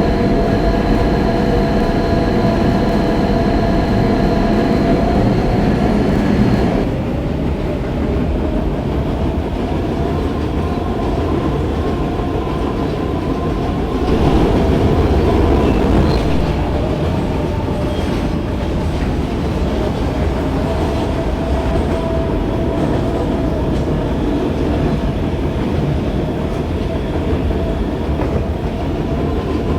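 Inside an R160B Siemens subway car running between stations: a steady low rumble and wheel clatter on the track. A layered electric whine from the propulsion sounds at first and cuts off suddenly about seven seconds in, as the train stops drawing power and coasts.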